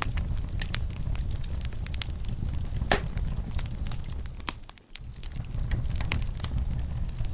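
Wood fire crackling in a fireplace: sharp, irregular pops over a steady low rumble of flame. The sound briefly drops out and comes back about two-thirds of the way through.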